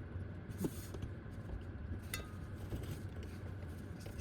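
Faint metallic clinks and scrapes of tools and parts being handled, one clink about two seconds in ringing briefly, over a low steady hum.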